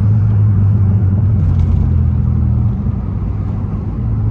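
Muffler-deleted 2002 Pontiac Grand Prix GT's V6 exhaust with a low, steady drone under throttle. It is louder for the first two and a half seconds, eases back, and swells again near the end.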